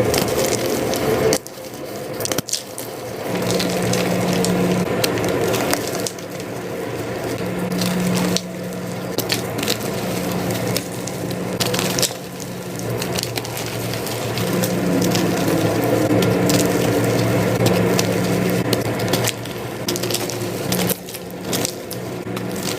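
Blocks of reformed gym chalk being crushed and crumbled by hand, a dense crunchy, powdery crackle full of small snaps, sped up to double speed. It breaks off abruptly several times where clips are cut together.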